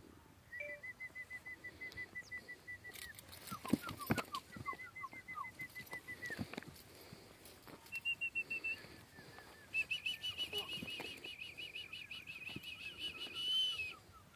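Birds singing in long, fast trills of evenly repeated high notes, each trill held at one pitch, with some falling notes under them; a few sharp knocks about three to four seconds in.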